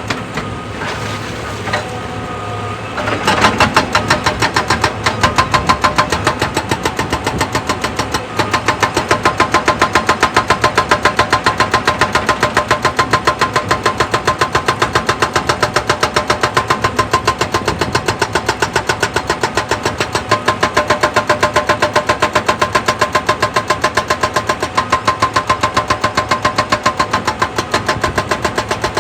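Excavator running with a fast, even pulsing that gets louder about three seconds in and then holds steady.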